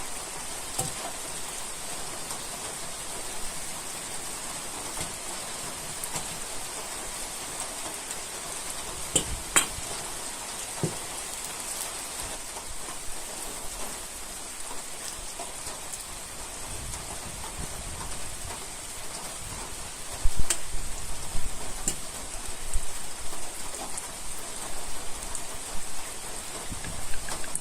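Steady rain falling, with a few sharp taps of drops. From about two-thirds of the way in come louder, irregular low knocks.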